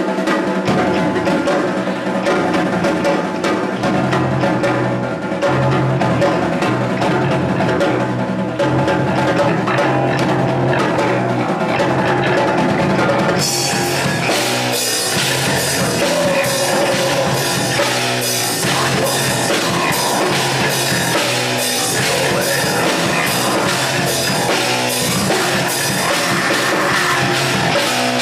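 Rock band playing live, led by a drum kit, in a rough recording. About thirteen seconds in the music opens up, brighter and fuller.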